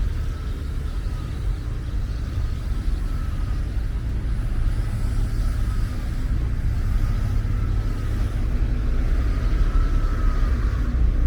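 City street traffic on wet roads: a steady low rumble of passing cars with tyre noise, and a faint tone in the background that slowly wavers in pitch.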